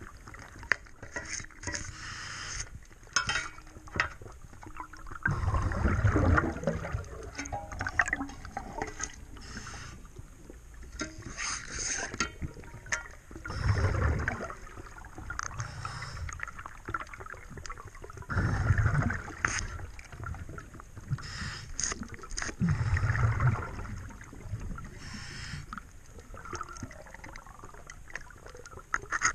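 Underwater sound of a scuba diver breathing through a regulator: a loud rush of exhaled bubbles about every four to five seconds, with scattered clicks and quieter hissing between the breaths.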